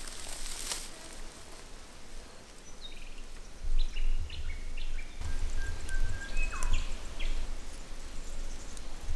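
Bird song: a run of short whistled notes at stepping pitches, then a held whistle that slides down, over a low rumble.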